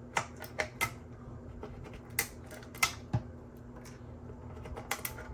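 3D-printed plastic support material snapping and crackling as it is broken away from a printed helmet piece, heard as a scattered series of sharp clicks.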